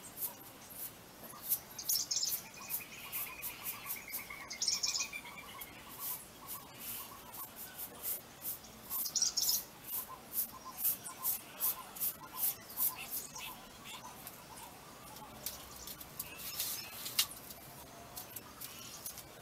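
Birds chirping, with several short chirps and a gliding whistle, over a run of quick scratchy strokes, a few a second, from a short hand broom sweeping a floor.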